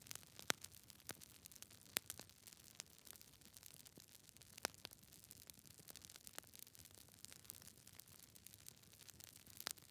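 Quiet crackling of burning logs in a wood fire: irregular sharp pops and snaps over a faint hiss, with louder pops about half a second in, at about two seconds, a little before five seconds, and near the end.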